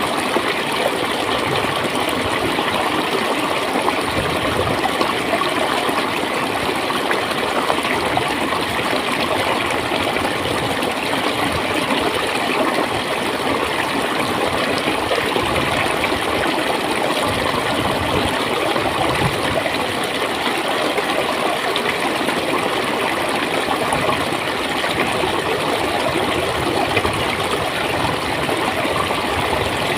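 Shallow stream of water running and gurgling steadily.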